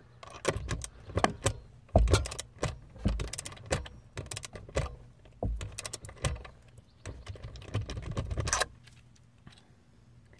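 Irregular metallic clicks and knocks from a torque wrench being worked on a roof vent fastener, stopping about nine seconds in. The wrench is set to 20 inch-pounds and is not clicking off.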